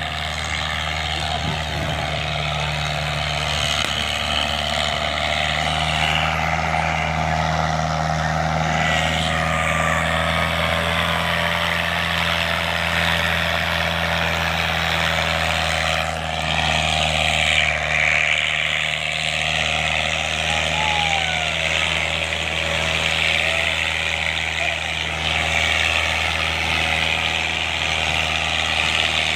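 Fiat 640 tractor's four-cylinder diesel engine running steadily under load while pulling a disc harrow.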